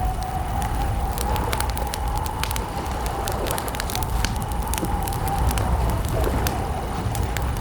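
Wood campfire crackling, with scattered sharp pops over a steady low rumble, joined by a continuous, slightly wavering tone.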